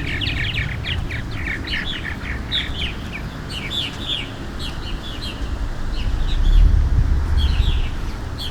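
Barn swallows twittering, a quick run of short chirps, busiest in the first few seconds, with wind rumbling on the microphone and swelling about two-thirds of the way through.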